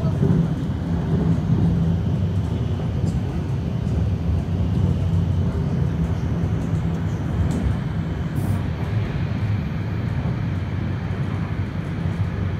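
Steady low rumble of a moving train heard from inside the passenger carriage, with a low hum under it.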